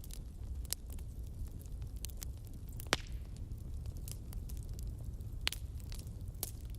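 Wood fire crackling, scattered sharp pops and snaps over a steady low rumble, the loudest pops about three seconds in and again near five and a half.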